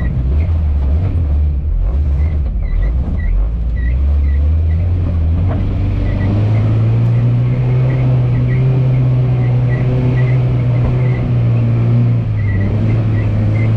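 Lada Niva's engine running steadily under way, its note stepping up to a higher pitch about six seconds in and holding there, with a light high chirp repeating over it.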